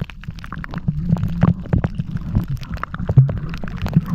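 Water sloshing and rumbling around a camera microphone, with many sharp clicks and crackles scattered throughout.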